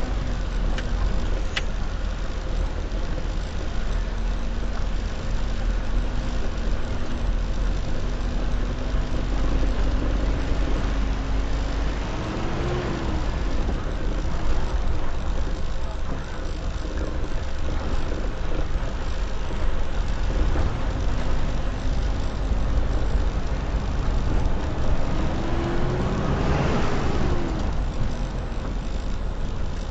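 Road traffic: a steady low engine and road rumble, with a vehicle's engine tone rising and swelling past twice, the second pass louder and closer near the end.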